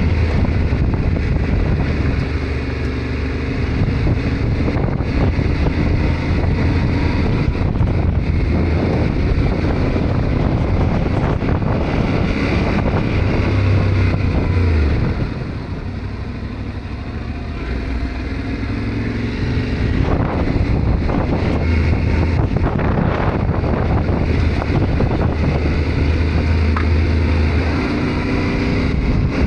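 Yamaha Ténéré 700 parallel-twin engine running as the motorcycle rides along, its note shifting with the throttle. It eases off about fifteen seconds in and picks up again a few seconds later. Wind noise on the microphone runs under it.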